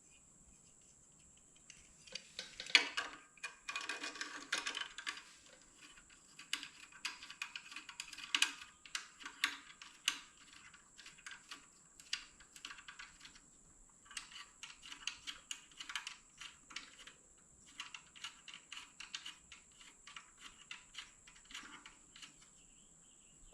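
Rapid small clicks and taps of hand tools and metal parts in bursts with short pauses, as an aftermarket cover is fitted onto a motorcycle brake pedal.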